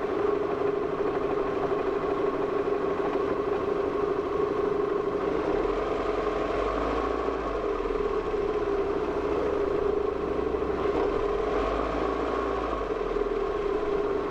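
Steady engine drone of a vehicle moving slowly aboard a car ferry, with a constant mid-pitched hum. A deeper rumble joins in about five seconds in and fades near the end.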